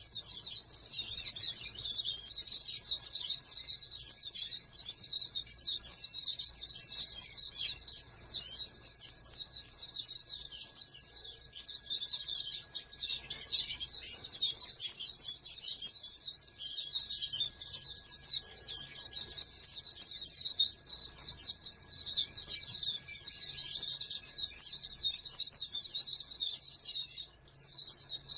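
Pleci (white-eye) songbird singing a long, unbroken run of fast, high twittering notes, with a short pause near the end.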